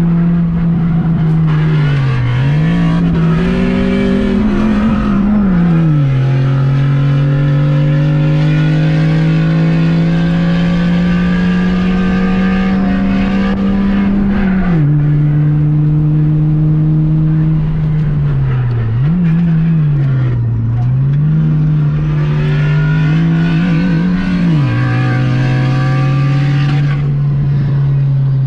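Honda Fit's 1.5-litre four-cylinder engine under hard acceleration on a race track: the pitch climbs slowly through long pulls, drops sharply at gear changes about 6, 15 and 25 seconds in, and dips and recovers briefly a few times as the throttle is lifted for corners.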